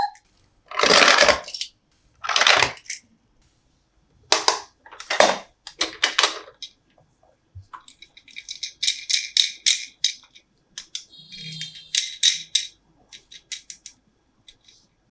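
Hands handling a plastic toy playset and its packaging: two short rustles, then scattered clicks, and later two runs of rapid clicking.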